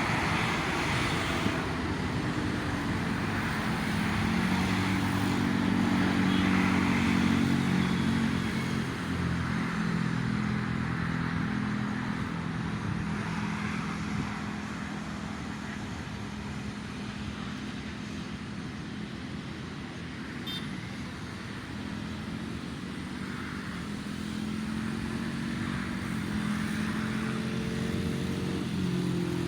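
Steady road traffic: engines of passing vehicles running continuously, swelling louder and fading again as they go by.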